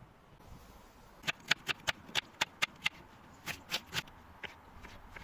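A quick, even run of about eight sharp taps or clicks, then three more after a short pause.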